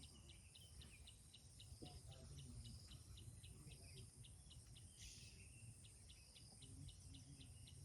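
Faint insect chirping, an even pulse of about four short chirps a second, over quiet rural background noise, with a brief soft hiss about five seconds in.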